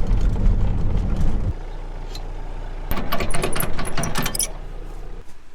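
Wind buffeting the microphone with a loud, uneven low rumble for about the first second and a half, then a quieter steady rumble; in the middle, a quick run of light metallic clinks and rattles.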